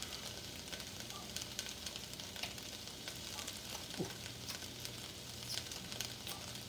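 Onions frying in a pan: a steady sizzling hiss with scattered crackles.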